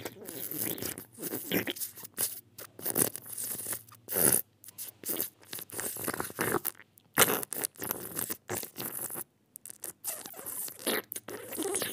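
Eating sounds: a mouth chewing and crunching food in irregular short bites, with brief pauses between them.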